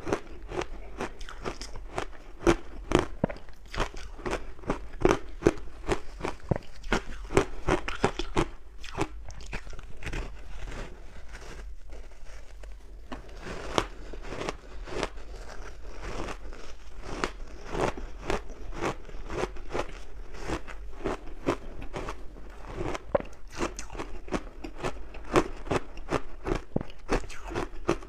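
Crunchy ice being bitten and chewed close to the microphone: a quick, continuous run of sharp crunches, with a short lull about halfway through.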